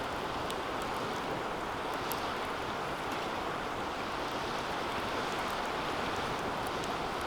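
Wood fire burning in a stainless steel fire pit: a steady rush of flame with faint, scattered crackles.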